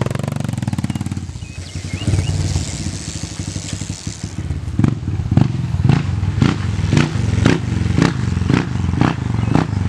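Dirt bike engine running, its level dipping and rising. Over the second half it is overlaid by sharp clicks about twice a second.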